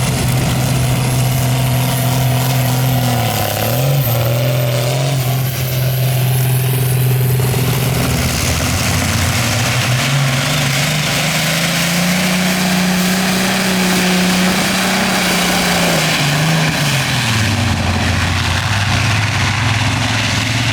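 Multi-engine pulling tractor running loud and steady. The engines rise in pitch about halfway through, hold high for several seconds, then drop back near the end.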